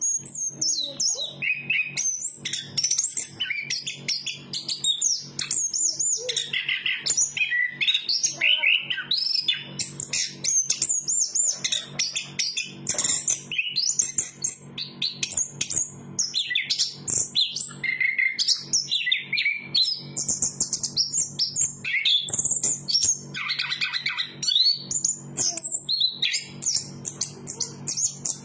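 Chestnut-capped thrush singing a continuous, rapid, varied song of short whistled notes and trills, with no breaks, over a faint steady low hum.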